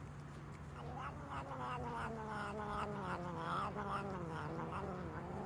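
A cat yowling: one long drawn-out caterwaul that wavers and slowly falls in pitch, over a steady low hum.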